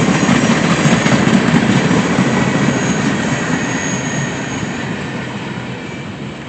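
Train rolling past: a steady rumble of wheels on rail that fades gradually as the train moves away, with a faint high wheel squeal about three to four seconds in.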